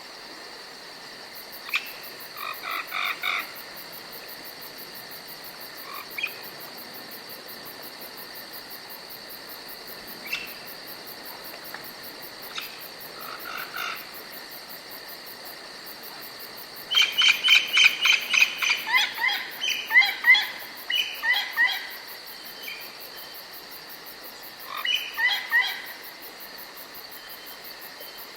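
Forest ambience: insects chirring steadily in a high, even hum, over bursts of short repeated calls from birds or frogs. The calls come as scattered short clusters at first, then as a long run of rapid, loud notes past the middle and a shorter cluster near the end.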